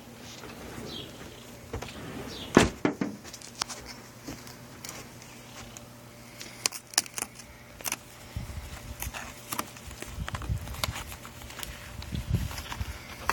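Scattered clicks and knocks, the loudest a sharp knock about two and a half seconds in, with low rumbling setting in about eight seconds in.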